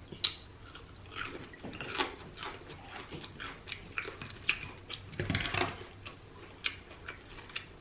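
Close-up chewing of crunchy deep-fried battered seafood: a run of short, crisp crackles and crunches as the breading breaks up. A louder, lower burst comes about five and a half seconds in.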